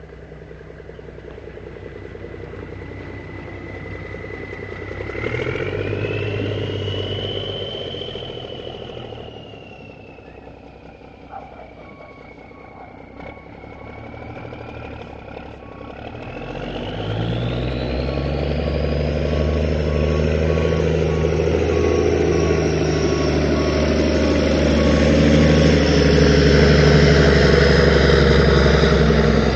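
Old truck's engine running, with a high whine that rises and falls with engine speed. About halfway through the engine comes under load and grows steadily louder as the truck pulls.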